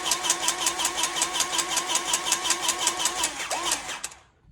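Battery-powered electric grease gun pumping grease into a spring-pivot zerk fitting on a grain truck. Its motor runs with a steady whine and a fast, even pulse of about eight strokes a second, then stops about four seconds in.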